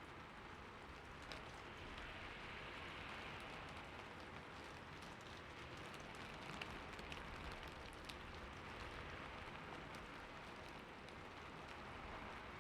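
Soft, steady rain falling, an even hiss with scattered light drop ticks.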